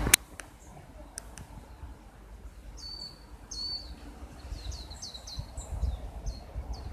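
Small songbird chirping outdoors: a string of short, high chirps starting about three seconds in and coming faster toward the end, after a sharp click at the very start and a few faint ticks.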